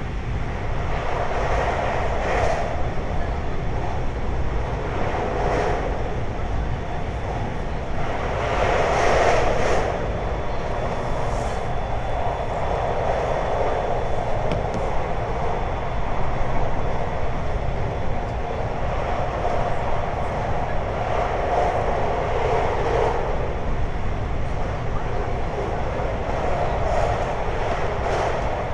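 Onboard running noise of a JR 521-series electric multiple unit travelling at speed: a steady rumble of wheels on rail, with a faint steady high tone and the noise swelling now and then.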